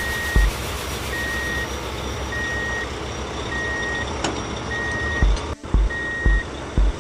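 Truck reversing alarm beeping steadily, one high beep about every 1.2 seconds, over background music with a thumping beat that drops out for a few seconds in the middle.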